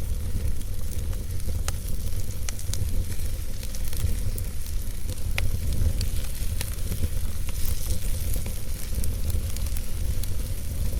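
Wood fire burning in a fireplace, crackling with scattered sharp pops and snaps over a steady low rumble and hiss.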